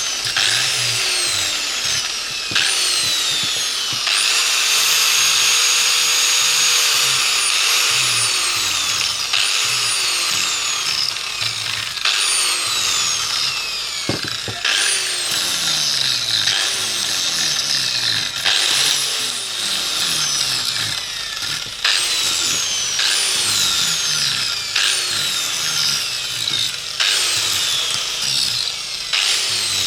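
Handheld electric power tool run in repeated bursts: its whine rises as it spins up, holds, then falls away each time it is released, with one longer steady run a few seconds in.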